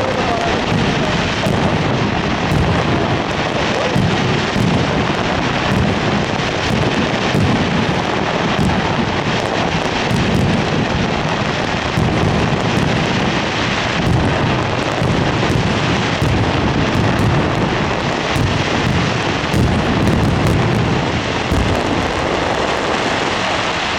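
Fireworks going off in a dense, unbroken barrage: deep booms run together into a continuous rumble, with rapid crackling over the top throughout.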